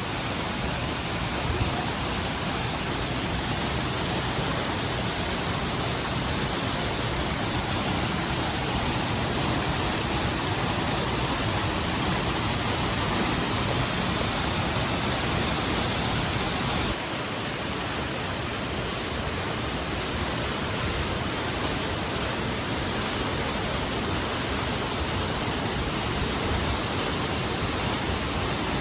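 Waterfall: a steady, even rush of falling water, dipping slightly in level about seventeen seconds in.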